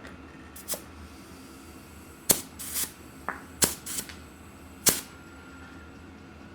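About seven sharp clicks and knocks, scattered and uneven, from tools and the wheel being handled while a mountain bike tire is fitted.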